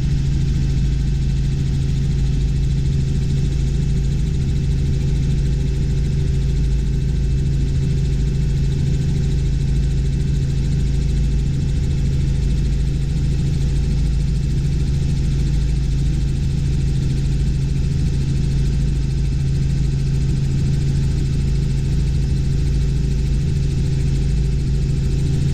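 Robinson R44 Clipper II helicopter in cruising flight, heard from inside the cabin: the steady drone of its six-cylinder piston engine and rotors, a deep even hum with a fainter higher tone over it.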